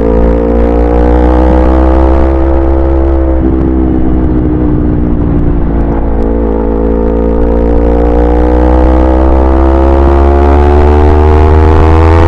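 Yamaha YZF-R25's 249 cc parallel-twin engine pulling under acceleration on the road, its pitch rising steadily. An upshift about a third of the way in drops the revs abruptly, and then the engine climbs again.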